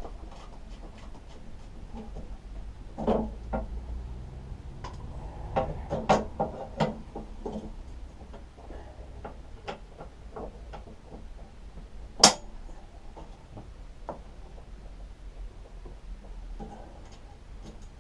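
Metal clinks and knocks of a bolt, washer and handlebar being fitted by hand onto a lawnmower, with one sharp, louder clank about twelve seconds in.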